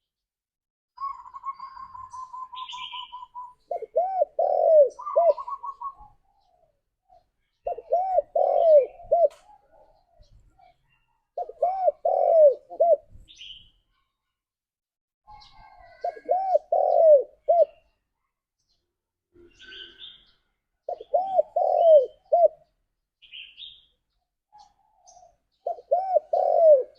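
Spotted dove (tekukur) cooing: a repeated phrase of several low arched coos, given six times about every four to five seconds. A rapid, even trill sounds near the start, and faint higher chirps of other small birds come through between phrases.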